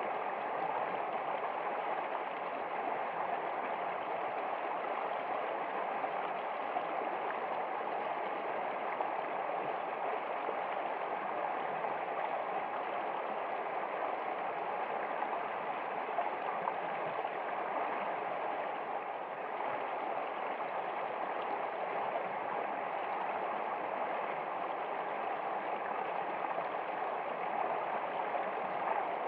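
Steady running water of a stream, flowing evenly without a break.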